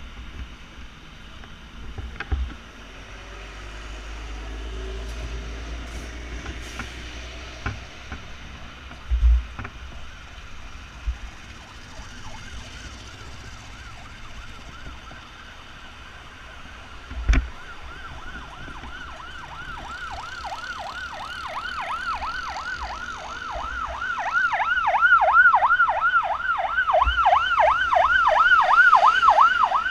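Emergency vehicle siren in a fast yelp, rising and falling about two or three times a second, growing louder through the second half as it approaches. Two dull thumps come earlier, over steady street traffic noise.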